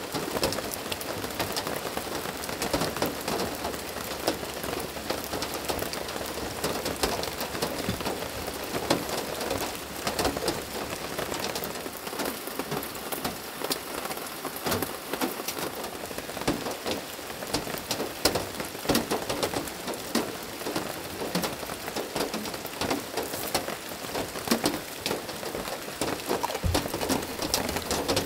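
Heavy rain falling steadily, a dense, unbroken patter of drops striking surfaces close by.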